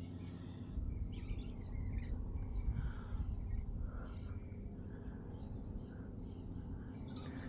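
Birds chirping in a tree in short, scattered calls, over a steady low rumble.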